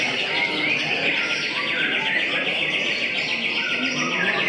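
White-rumped shama (murai batu) singing: a fast, buzzy, high trill held for about four seconds, with shorter whistled phrases around it.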